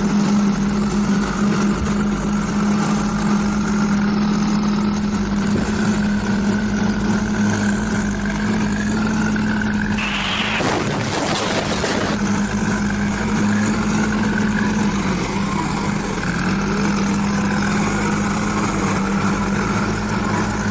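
Heavy vehicle engine running steadily at a constant hum. A short rushing burst of noise comes about halfway through.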